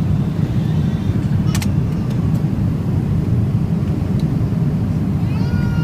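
Steady low cabin noise of a Boeing 777-300ER, its GE90 engines and airflow, with a sharp click about a second and a half in and a few faint ticks. A pitched tone with overtones begins just before the end.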